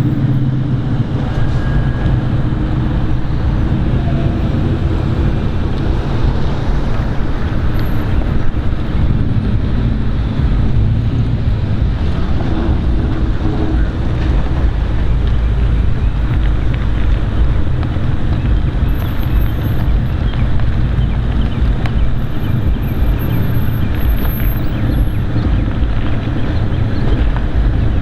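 Wind buffeting the microphone: a steady, loud, fluttering low rumble.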